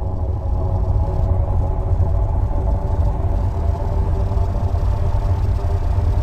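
Sonified space recording from Saturn's system: a steady deep rumble with several faint sustained tones above it.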